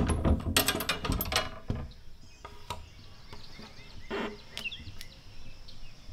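A quick run of sharp knocks and clatter in the first second or two, then birds chirping here and there over quiet outdoor background.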